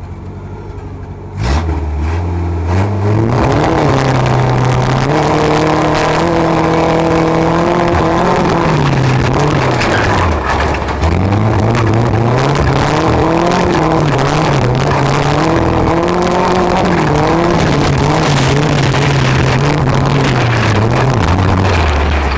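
Tuff truck's engine revving hard as it launches about a second and a half in, then rising and falling in pitch under throttle through the run. It drops back low twice: around halfway and near the end.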